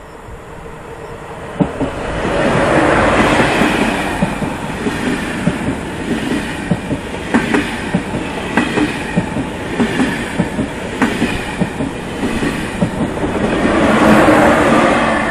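A TGV high-speed train running past along the platform. The noise grows over the first couple of seconds as the front of the train arrives, then settles into a steady rumble with regular clicks of the wheels over the rail joints, and swells again near the end.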